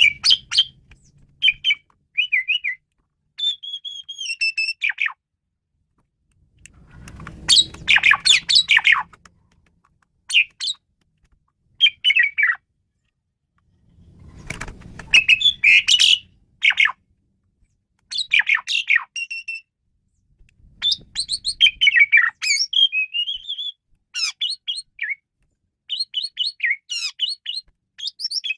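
Asian pied starling singing: a varied run of whistles, chirps and some harsh, noisy notes, delivered in phrases broken by short pauses.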